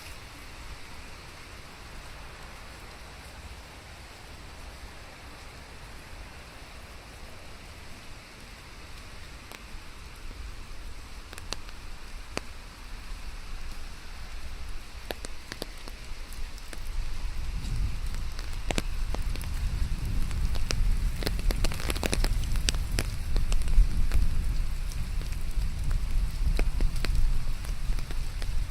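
Rain falling in a steady hiss, with scattered drops hitting close by from about halfway through. A low rumble builds under it in the second half, and the whole sound grows louder toward the end.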